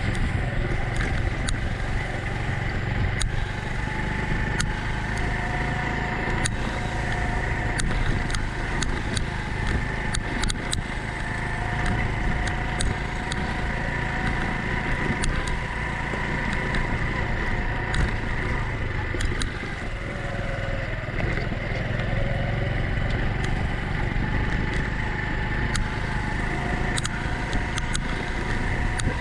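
Honda Cub's small single-cylinder four-stroke engine running steadily under way, mixed with wind and road noise, with frequent brief sharp clicks throughout.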